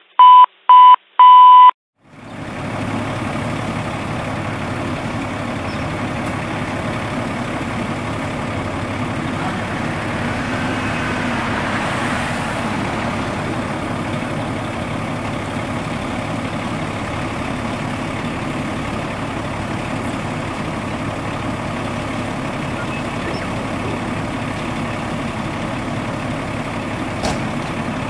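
Three short, loud electronic beeps, then the steady running of a fire engine's diesel engine at idle.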